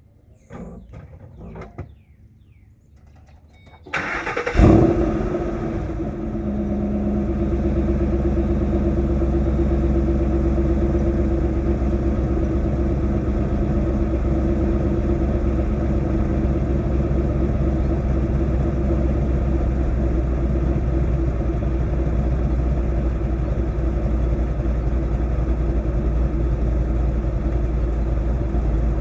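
2005 Mustang GT's 4.6-litre V8, fitted with aftermarket cams, long-tube headers and an H-pipe, starting up: a few faint clicks, then about four seconds in a brief crank and a loud flare of revs as it fires. It then settles into a steady, pulsing idle through the stock mufflers.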